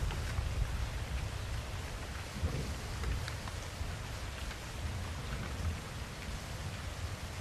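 Steady rain with scattered drop ticks, over a low, continuous rumble of thunder.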